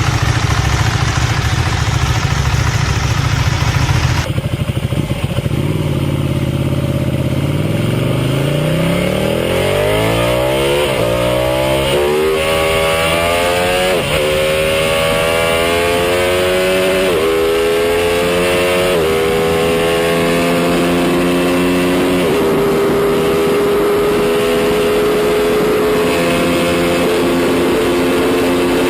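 Motorcycle engine accelerating hard through the gears: its pitch climbs and drops back at each of about five upshifts, then rises slowly in a high gear. Before this, about four seconds in, a steady low engine rumble cuts off abruptly.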